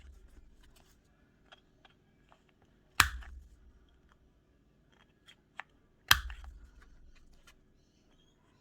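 Two sharp snapping clicks about three seconds apart, each with a dull thump that fades over about a second, from a hand craft tool pressed through paper, with faint paper-handling ticks between.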